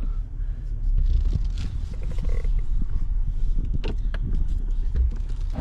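Low, steady rumble of a Jeep Wrangler's engine running as it is parked, heard from inside the cabin, with a few faint clicks and one sharper click near the end.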